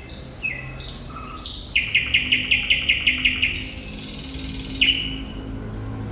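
Thrush nightingale singing: a few clear falling whistles, then a fast run of about ten repeated notes, a high buzzy rattle, and a final falling whistle.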